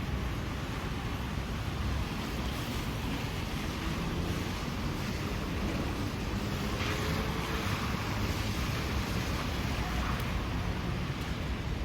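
Steady wind rushing over the microphone, a constant low rumbling noise with no clear pitch.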